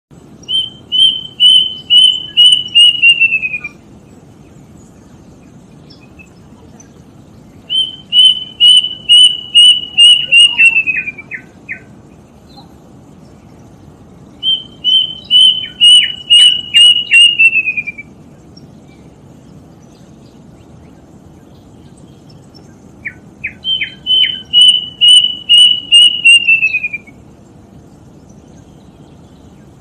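A bird singing in four separate phrases, spaced several seconds apart. Each phrase is a run of short, clear, high notes at one pitch, about two to three a second, that sag slightly in pitch at the end, with a few lower short notes at the edges.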